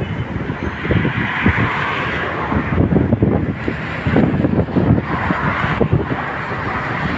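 Strong wind buffeting the microphone over sea waves washing up the shore, the surf hiss swelling twice.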